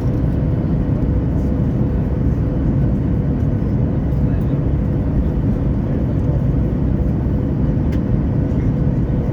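Boeing 737 jet noise during landing: a steady low roar with a constant hum running through it.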